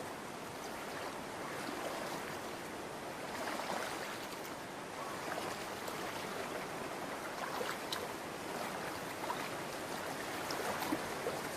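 Shallow stream water running steadily, with small splashes here and there.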